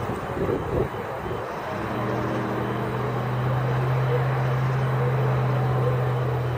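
Wind buffeting the microphone, then a steady low mechanical hum starting about two seconds in and holding at one pitch for about five seconds.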